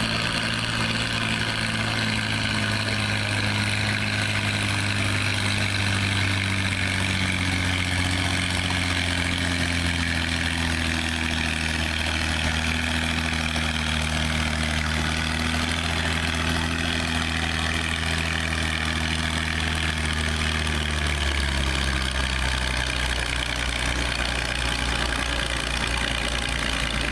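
Antique tractor engine running hard under load, its pitch sinking slowly as it lugs down, then dropping a step about three-quarters of the way in.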